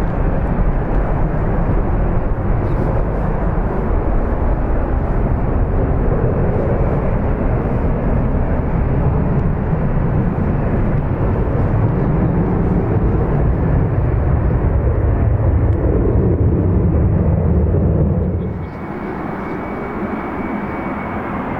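Airliner engine noise mixed with strong wind rumbling on the microphone, loud and continuous, then dropping suddenly about three-quarters of the way through to a quieter steady hiss with a faint high whine.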